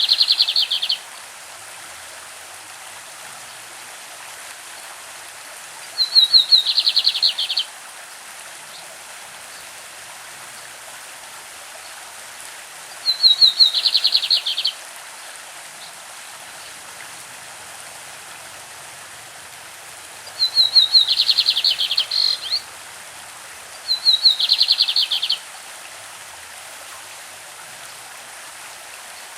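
Lined seedeater (bigodinho) singing its classic song: phrases of rapid, high, buzzy notes, each lasting a second or two, heard five times, over the steady rush of a stream.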